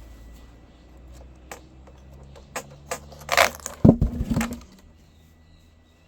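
A run of knocks and clatter that builds to a few heavy thuds about four seconds in, then dies away.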